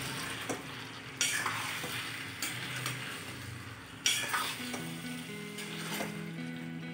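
Marinated chicken pieces sizzling in hot oil in a kadhai while a spatula stirs and scrapes them around the pan. Two stronger stirring strokes come about a second in and about four seconds in.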